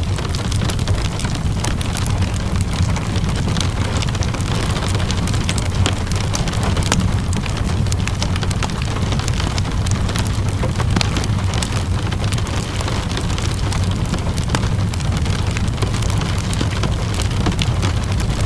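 Steady rainfall with a low rumble, mixed with a wood fire crackling in frequent sharp pops and snaps.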